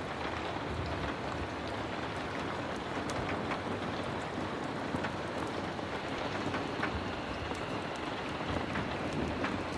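Heavy rain falling steadily, an even hiss with scattered small sharp clicks.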